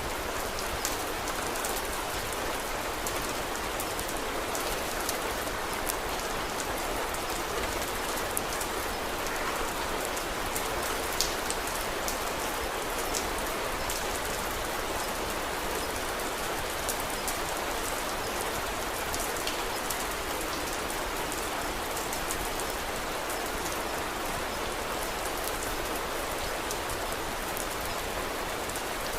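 Steady rain falling on a surface, an even hiss with many scattered sharp little clicks of drops.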